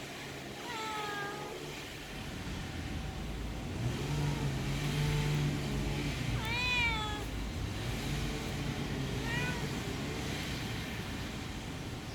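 A domestic cat meowing three times: a falling meow about a second in, a louder arched meow near the middle, and a short one later. A steady low hum, like an engine running, sits underneath.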